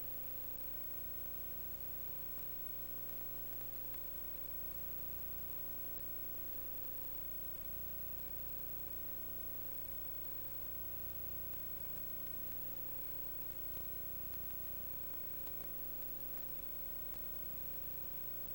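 Steady electrical hum and hiss, with a few constant tones and nothing else happening.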